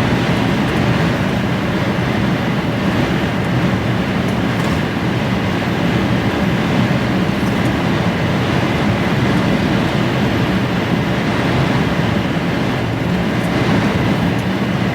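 Steady drone inside a fully laden HGV's cab at motorway speed: engine and road noise mixed with storm wind pushing against the cab.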